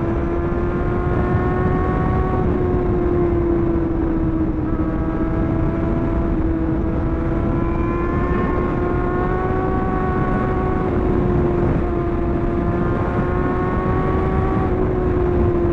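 Sport motorcycle engine running at steady cruising revs, its pitch holding nearly level with slight rises and dips, over a heavy rush of wind and road noise.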